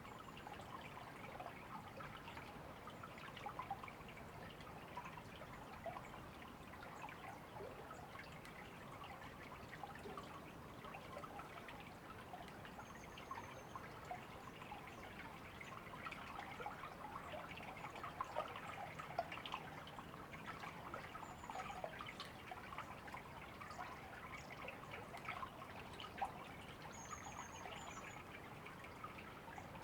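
A river or stream babbling and trickling steadily. A few faint, short, high bird chirps come through now and then.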